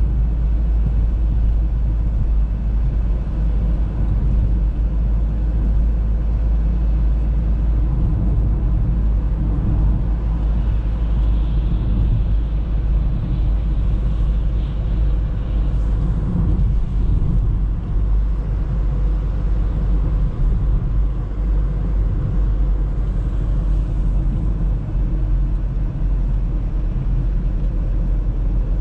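Steady low rumble of an Audi A3 driving on the road: engine and tyre noise.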